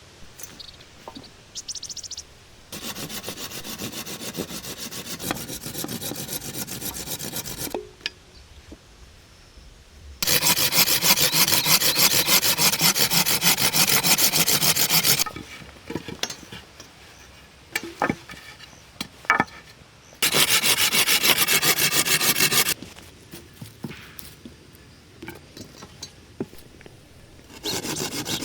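Rapid scraping of a tool on wood, coming in bursts of a few seconds with short pauses between, the second burst the loudest.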